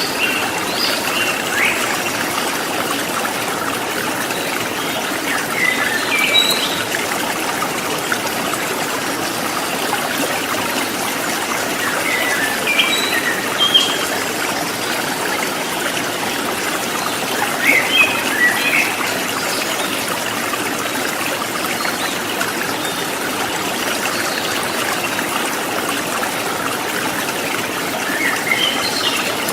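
River water running over rocks, a steady trickling rush. A bird chirps briefly about five times, every few seconds.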